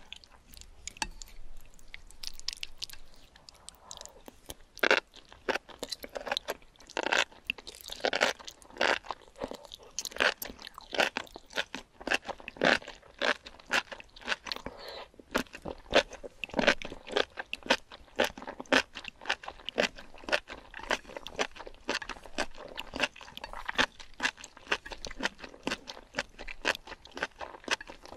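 Close-miked mouth sounds of chewing octopus and enoki mushrooms in spicy sauce: a dense run of short clicks and smacks, several a second, some much louder than the rest.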